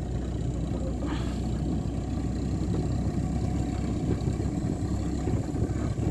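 Volkswagen Santana heavily laden with firewood driving along a rough track: a steady low engine and road rumble, heard from on top of the load.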